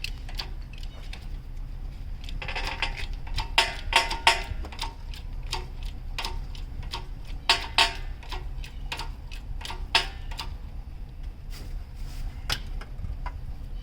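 Irregular clicks and light metallic knocks of hand work on the engine and hoist during an engine removal, busiest a few seconds in, over a steady low hum.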